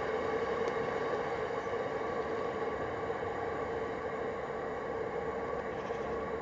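Receding freight train of hopper wagons running away along the track: a steady rumble with a continuous hum, easing off very slightly.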